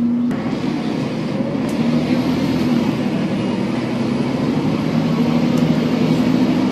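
Volvo B7TL bus's 7.3-litre drivetrain running under way with a steady droning whine. The whine drops out just after the start and comes back as two tones, louder near the end: the odd sound from the differential.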